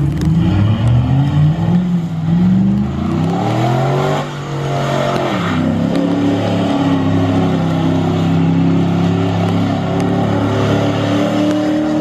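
Pickup truck engine revving: the pitch climbs over the first few seconds, falls away around four to five seconds in, then holds at steady, fairly high revs.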